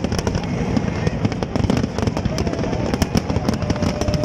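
Large aerial fireworks display: a dense, continuous barrage of shell bursts and crackle, many sharp reports a second overlapping without a pause.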